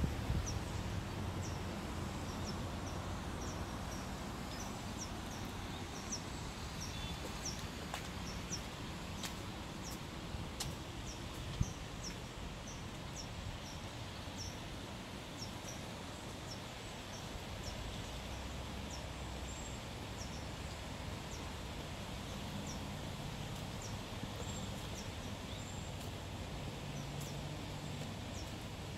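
A small bird repeating short, high chirps that fall in pitch, about two a second at first and sparser later, over a steady low rumble.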